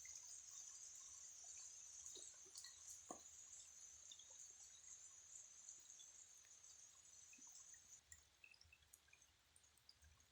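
Faint, scattered raindrops dripping, with a steady high-pitched hiss that stops about eight seconds in.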